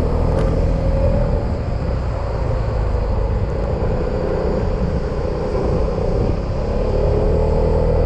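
Yamaha XMAX scooter's single-cylinder engine running steadily while riding, over a constant rumble of wind and road noise. The engine note rises a little near the end.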